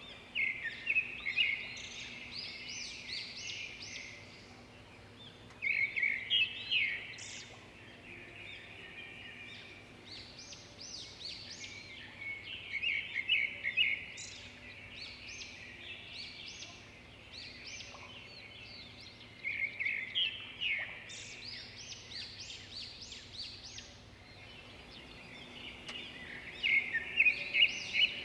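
Wild birds singing outdoors: about five bouts of rapid, high chirping notes, each lasting a second or two, with quieter gaps between them.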